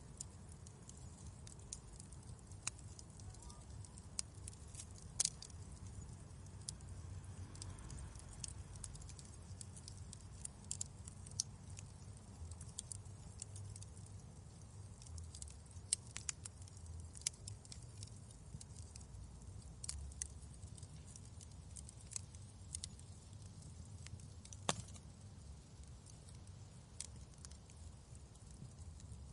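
Wood fire crackling: irregular sharp pops and snaps over a low, steady rumble of the flames, with a few louder pops here and there.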